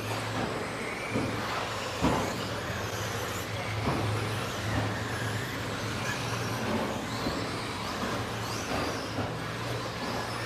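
Several 2WD electric RC stadium trucks with 13.5-turn brushless motors racing around the track: high motor whines rise and fall with throttle over tyre noise, with a couple of sharp clacks, and a steady low hum underneath.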